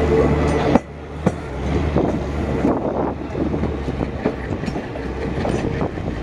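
Diesel-hauled passenger train moving off. The locomotive's engine is heard steadily, then drops away sharply under a second in, leaving carriage wheels rumbling and clicking irregularly over the rail joints as the coaches roll past.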